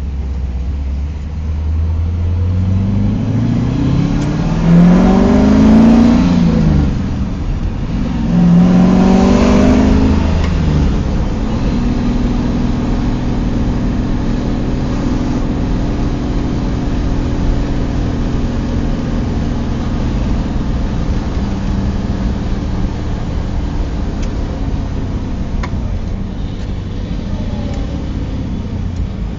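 A 1969 Pontiac Trans Am's V8 engine, heard from inside the car, idles briefly and then pulls away under hard acceleration, the pitch rising sharply and dropping twice as it shifts up through two gears. It then settles into a steady cruise for the rest of the time.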